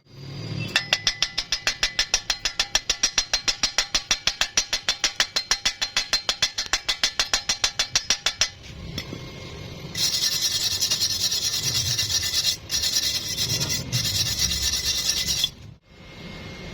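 A welder's arc switched on and off in quick, even pulses, about six a second, the stitch technique for thin metal that keeps it from burning through. Then comes a steady stretch of hiss of about five seconds, with a short break partway through.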